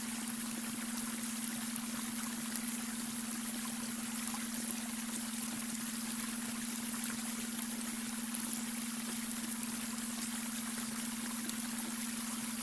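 Babbling brook, water running and trickling steadily, with a steady low electronic tone underneath: the beta-wave brainwave tone.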